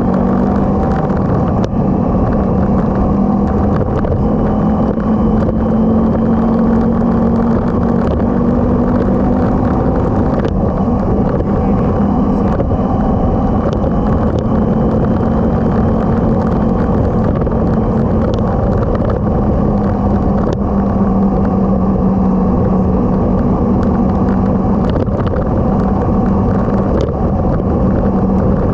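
Motorcycle engine running steadily while riding, its drone shifting a little in pitch, over heavy low rumble of wind and road noise.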